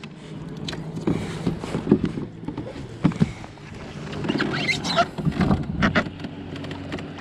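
Irregular knocks, clicks and splashing as a smallmouth bass is fought to the kayak and landed, with the loudest cluster of noise about two-thirds of the way in.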